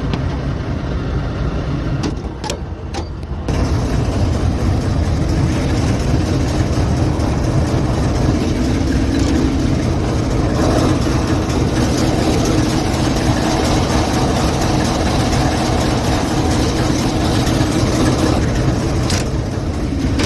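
Heavy locomotive engine running steadily. Its level dips briefly between about two and three and a half seconds in, then it comes back louder and fuller.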